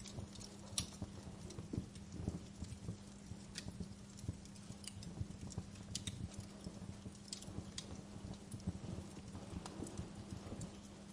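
Wood fire crackling in a fireplace: irregular sharp pops and snaps over a soft low rumble, with a faint steady hum underneath.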